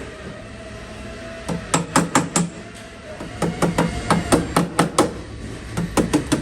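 A panel-beating tool striking a car's steel quarter panel in quick runs of sharp metallic blows, about four or five a second, starting about a second and a half in. This is metal being worked to draw out low spots in the panel.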